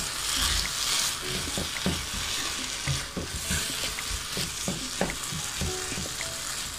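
Pav bhaji mixture of mashed potato, tomato and vegetables frying in a nonstick pan with a steady sizzle. A wooden spatula stirs and mashes it, making frequent irregular knocks and scrapes against the pan.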